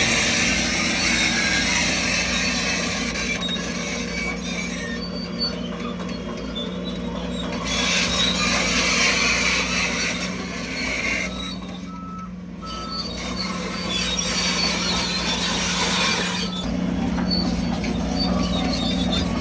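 Heavy earthmoving machinery at work: a diesel engine running steadily, with three stretches of high-pitched metallic squealing and clatter that come and go.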